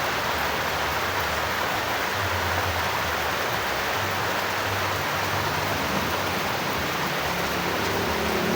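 Steady rain falling as a dense, even hiss, with a low rumble underneath.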